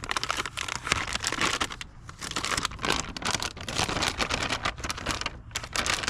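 Plastic packaging crinkling and rustling in irregular bursts, as a replacement HVAC control board is unwrapped and handled; the crinkling dips briefly about two seconds in.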